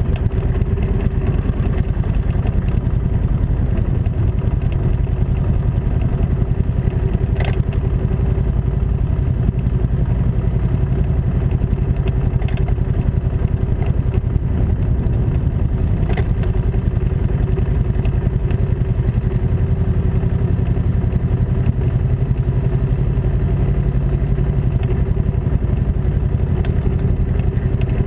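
Kawasaki Vulcan Mean Streak cruiser motorcycle's V-twin engine running steadily at low village speed, heard from a camera mounted on the bike, with two short clicks partway through.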